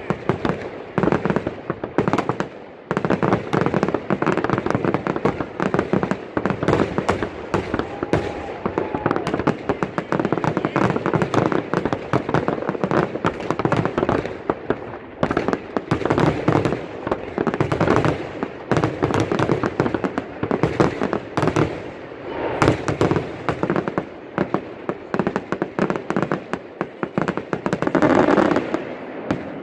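Fireworks display: a dense, continuous barrage of rapid bangs with only a brief lull about two and a half seconds in.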